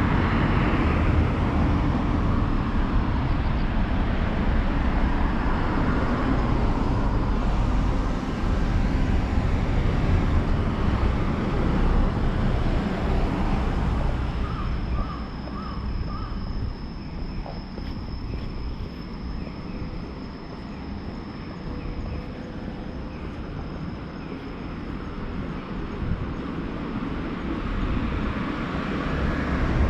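Road traffic passing close by as a rumbling wash of vehicle noise, dying down about halfway through. What is left is a quieter outdoor background with a steady high-pitched tone and a few brief chirps.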